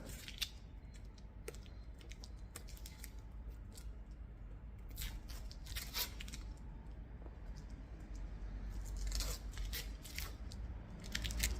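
Masking tape being peeled and crumpled off plastic number plates: scattered short rips, crinkles and light plastic clicks and scrapes, coming in a few clusters.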